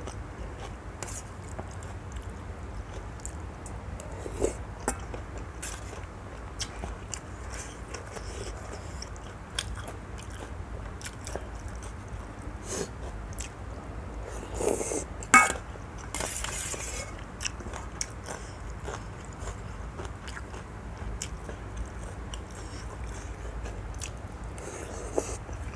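A person eating a bowl of noodles close to the microphone: chewing and biting sounds with many small scattered clicks, over a steady low hum.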